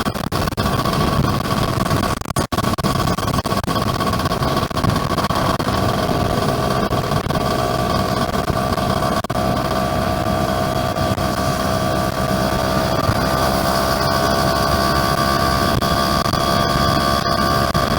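Yamaha F1ZR's two-stroke single-cylinder engine running steadily on the move, its pitch rising slightly partway through, under heavy wind rush on the microphone. The sound drops out briefly about two seconds in.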